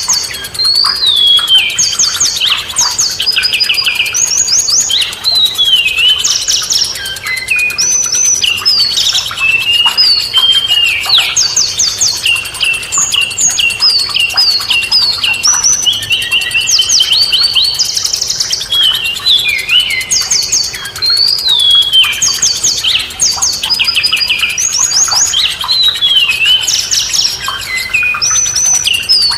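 Songbird singing without pause: fast runs of high chirps and trilled notes mixed with short falling whistles.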